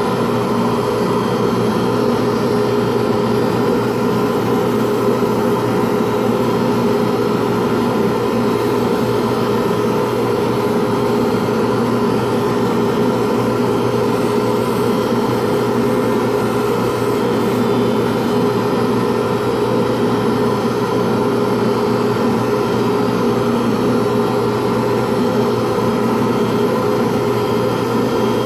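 A pen-turning machine's motor running steadily with a constant hum while the spinning pen blank is wet-sanded with 400-grit sandpaper.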